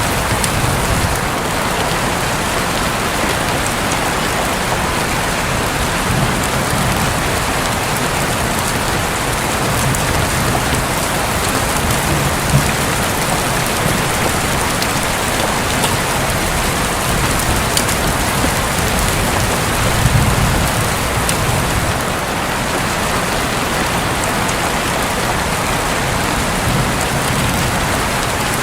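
Heavy, steady rain drumming on a roof. Low rumbles of distant thunder swell up about twelve seconds in and again about twenty seconds in.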